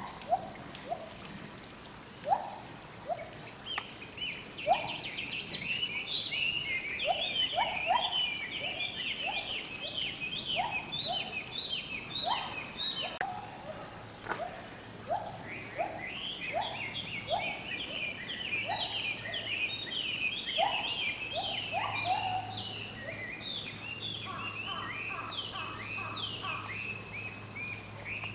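Birds calling in the enclosure's trees: two long runs of rapid, high, chattering notes, with lower single calls about once a second under them.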